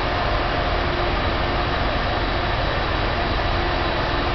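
Electric locomotive moving slowly past along the platform, heard as a steady drone with a few faint held tones.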